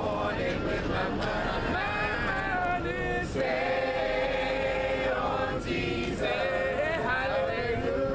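A group of voices singing a gospel song a cappella, holding long sung notes without instruments.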